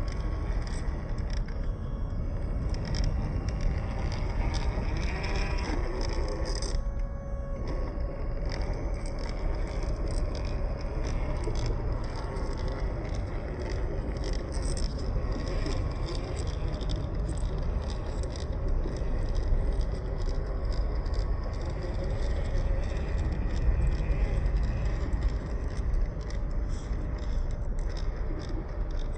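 Scale RC crawler truck running over rock: a small electric motor and gearbox whining steadily, with tyres scraping and many small clicks and rattles of the chassis and loose stones.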